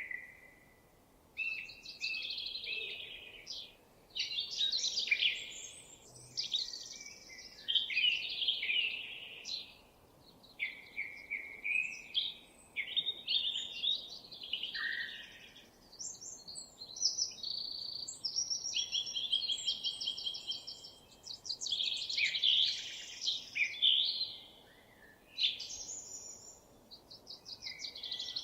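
Songbirds singing a long run of varied, high-pitched phrases, with short pauses between them.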